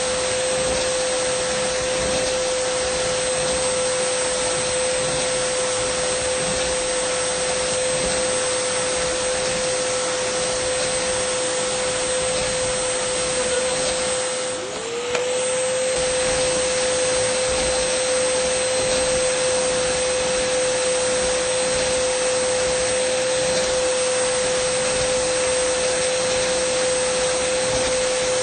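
Dyson vacuum cleaner motor running steadily: a strong steady whine over a rushing airflow hiss. About halfway through, the sound dips briefly and the whine sags, then rises back to pitch.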